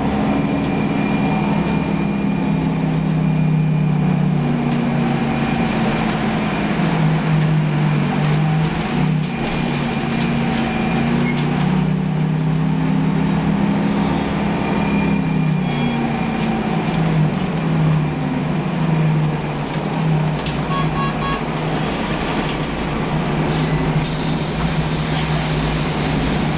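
Scania 8.97-litre six-cylinder turbo CNG bus engine running under way, its note rising and falling several times as the bus accelerates, shifts through its ZF automatic gearbox and slows. A short run of beeps sounds about twenty seconds in.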